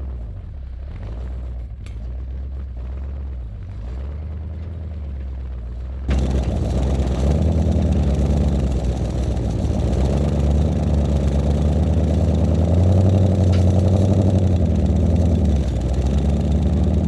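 Tow truck's engine running at low speed, its pitch rising and falling. About six seconds in it suddenly gets louder and stays so.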